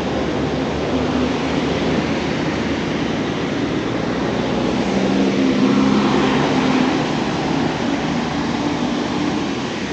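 Steady road traffic noise, with the hum of a heavier engine swelling about five to seven seconds in.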